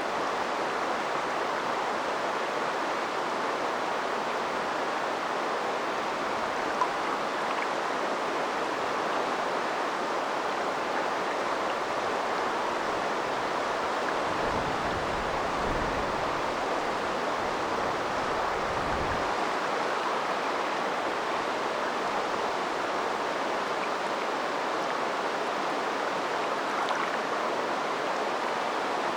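River water flowing steadily, a continuous even rush. A low rumble comes in for a few seconds about halfway through, and there is a single faint click near a quarter of the way in.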